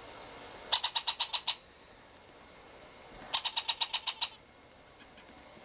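Baby blue-fronted Amazon parrot chick begging during hand feeding: two bursts of rapid, high, pulsed squeaks, about ten a second, the first about a second in and the second just past the middle.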